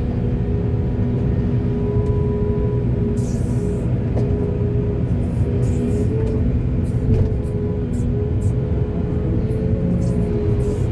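Heavy excavator's diesel engine running steadily at a constant pitch, with short hissing sounds every second or two.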